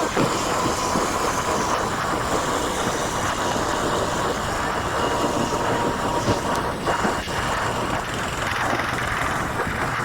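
Steady running noise of a moving vehicle, with a faint steady tone above it.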